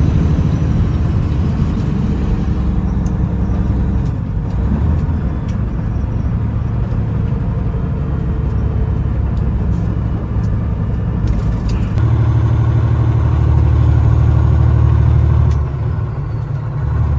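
Semi truck's diesel engine running under way, a steady low rumble whose note changes a few times, dipping briefly near the end before coming back up.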